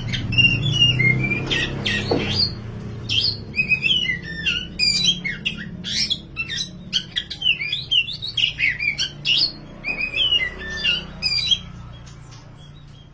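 Oriental magpie-robin (kacer, dark wulung form) singing in full, excited song: a fast run of varied whistled and chattering phrases that stops about twelve seconds in, over a low steady hum.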